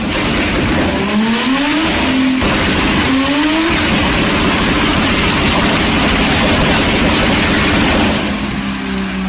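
A car engine with a loud modified exhaust, revving hard under acceleration: its pitch climbs twice in the first four seconds with a short break between, then holds a loud, steady full-throttle sound that eases off near the end.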